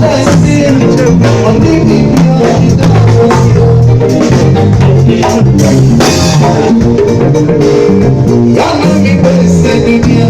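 Loud live band music: a drum kit keeping a steady beat under held instrumental notes.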